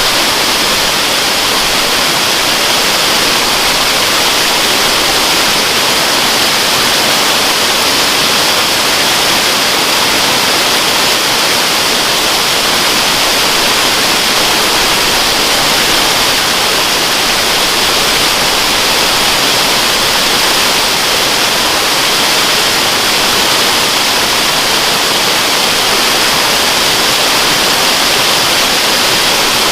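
Waterfall: a steady, loud, unbroken rush of falling water, an even hiss brightest in the upper range, with no change throughout.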